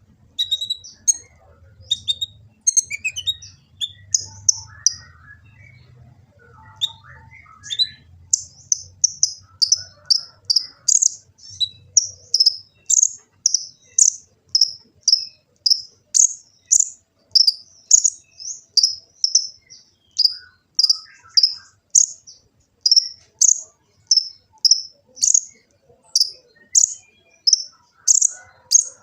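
Kolibri ninja sunbird singing: a few varied high chirps and twitters, then from about eight seconds in a long, steady run of short, sharp high chirps repeated about twice a second.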